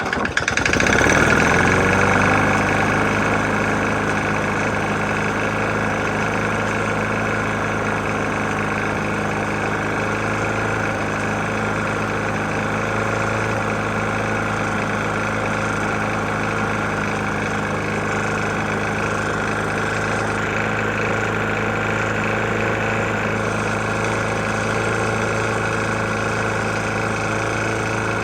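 Briggs & Stratton E450 single-cylinder mower engine catching and speeding up over the first couple of seconds, then running steadily. The engine has a bad knock, having been run almost out of oil.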